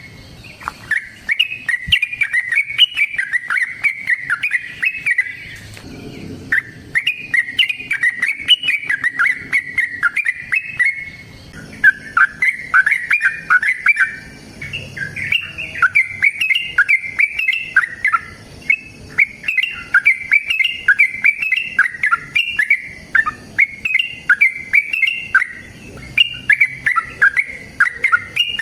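Yellow-vented bulbul (trucukan) singing long runs of rapid, bubbling chattering phrases, the 'ropel panjang' song. There are short breaks about six and about eleven seconds in.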